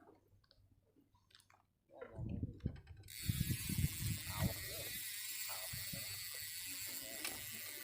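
Fishing reel ratchet clicking rapidly and steadily, starting about three seconds in and running for about five seconds, with handling knocks and rustles just before and under its start.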